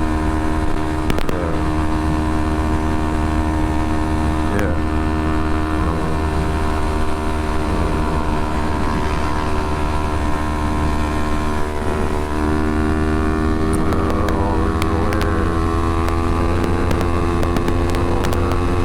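Kawasaki Ninja 250R parallel-twin engine running at mostly steady revs while riding, heard from a helmet-mounted camera, with heavy wind rumble on the microphone.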